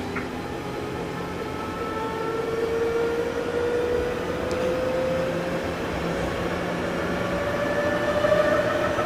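Odakyu 5000 series electric train running, its traction motor and gear whine rising slowly and steadily in pitch as the train gathers speed, over a continuous rumble of wheels on rail.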